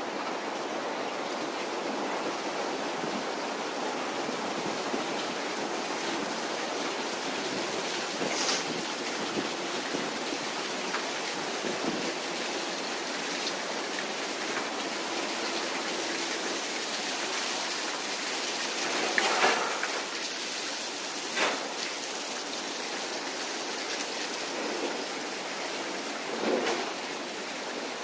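Restaurant ambience: a steady, even din of the dining room, with a few short clatters of dishes, about 8, 19, 21 and 26 seconds in.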